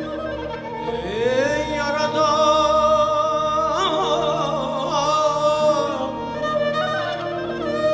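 Mugham singing over sustained orchestral strings: the voice slides up about a second in, then holds a long ornamented note with a wavering trill before easing off near the end.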